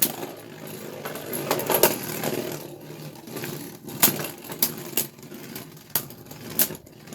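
Beyblade Burst tops, Xeno Xcalibur and a 3D-printed Dragoon S, spinning in a plastic stadium: a steady whirr broken by about half a dozen sharp clacks as they collide.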